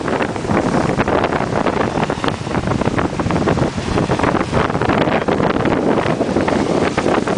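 Strong wind buffeting the microphone, mixed with wind-driven lake waves splashing against the shore, steady and loud throughout.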